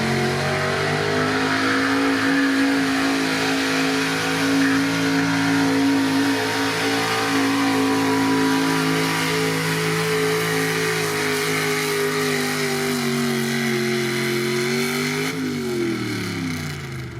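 Modified gasoline pickup truck engine held at high revs under load while pulling a sled, its pitch slowly sagging. About fifteen seconds in, the revs drop away sharply.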